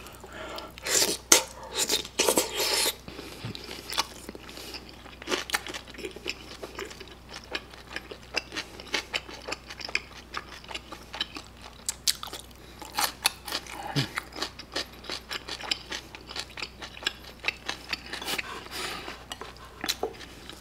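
A person chewing and crunching mouthfuls of kimpitang, fried sweet-and-sour pork under kimchi sauce and melted cheese, in close, wet mouth sounds, with light clicks of chopsticks against the dish. The crunching is loudest in the first few seconds.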